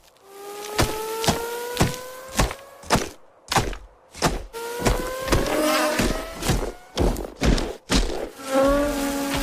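Cartoon sound effects: a run of sharp knocks, about two a second, over a pitched drone that slowly rises in pitch, twice over, with a steady tone coming in near the end.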